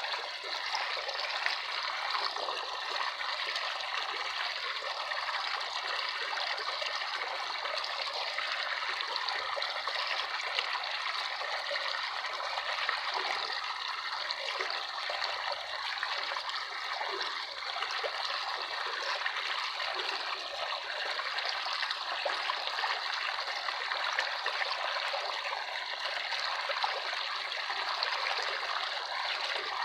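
Stream water trickling and flowing steadily, an even rushing hiss with small flickering splashes throughout.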